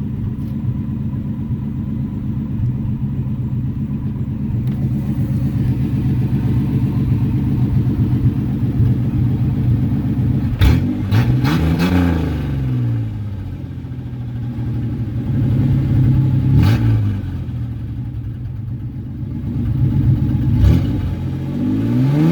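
Ford Ranger's 4.0-litre V6 idling loudly through an exhaust with a new catalytic converter and no muffler. About halfway through it is revved several times, the pitch rising and falling with each blip, and it is revved again near the end.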